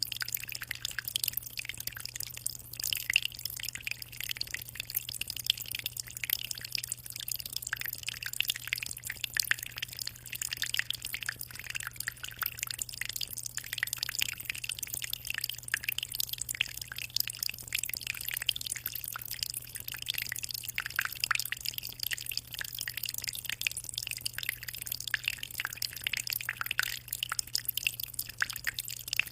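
Aquarium water trickling and splashing without a break, a dense patter of small drips and splashes, over a steady low hum.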